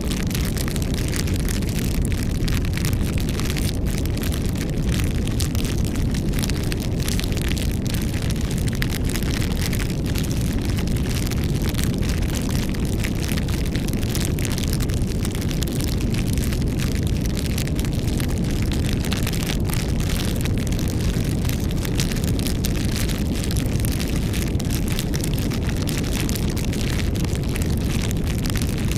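Campfire burning, with a steady low rush and many small crackles and pops throughout.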